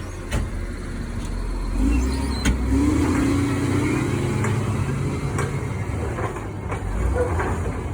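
Diesel truck engine running with a freshly replaced turbocharger. It gets louder about two seconds in and stays up for a few seconds, with a few sharp clicks over the engine sound.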